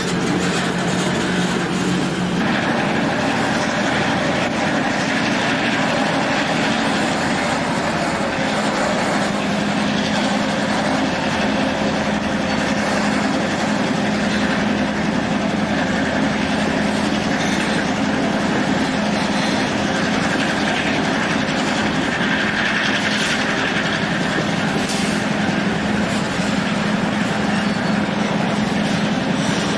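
Diesel-hauled passenger train running, heard from aboard: a steady rumble of wheels on rail with a continuous low drone from the diesel locomotive.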